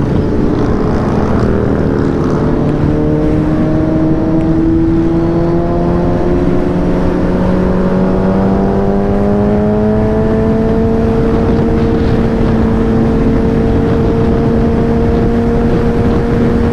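Motorcycle engine pulling steadily, its pitch climbing slowly for about the first ten seconds as the bike speeds up to pass, then holding even. Wind rushes over the helmet microphone.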